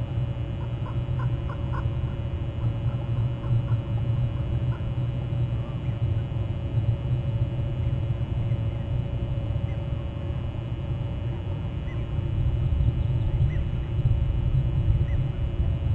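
A steady low rumble, with a few faint short bird calls in the first two seconds and scattered faint chirps later.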